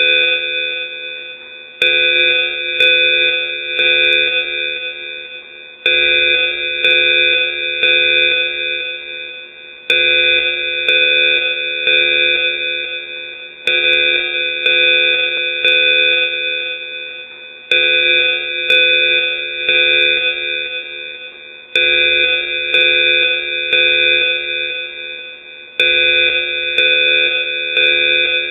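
A bright chiming tune looped over and over, restarting about every four seconds, each time starting loud and fading away.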